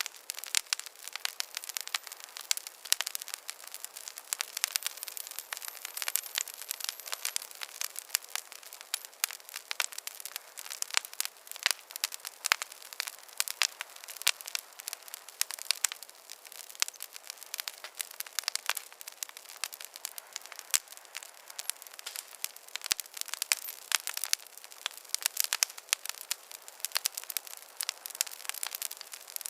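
Campfire crackling: a dense, irregular run of sharp pops and snaps over a steady soft hiss.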